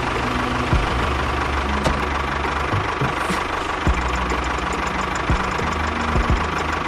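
A small engine running steadily, with a few sharp knocks scattered through the hum.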